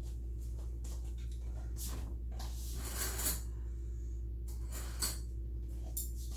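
Steady low hum, with a few soft rustles and clicks of things being handled, the clearest about three seconds in.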